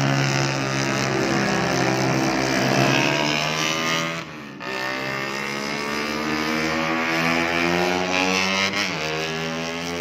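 Motorcycle engines running at high revs, their pitch climbing steadily, with a brief drop in the sound about four seconds in before the climb resumes, and the pitch sliding again near the end.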